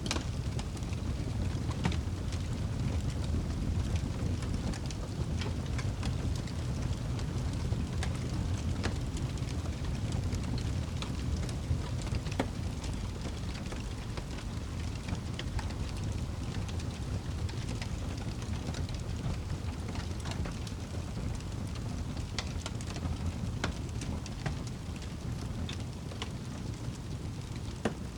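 Campfire burning, with scattered sharp crackles and pops over a steady low rushing.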